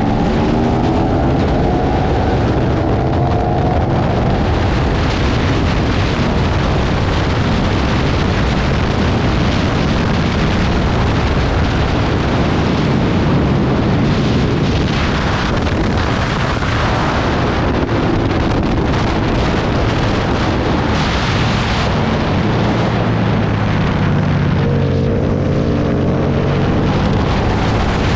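Aprilia Tuono V2 1000 sport motorcycle at track speed: loud wind rush over the microphone nearly covers the V-twin engine. The engine note comes through rising under acceleration in the first few seconds and again about three-quarters of the way in.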